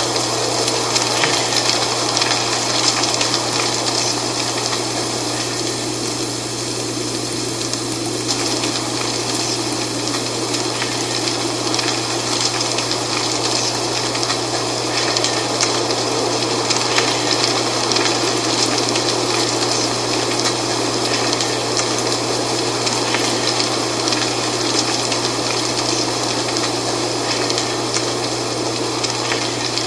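Dry fall leaves rustling and crackling steadily in the wind, a dense continuous hiss with many small crisp ticks.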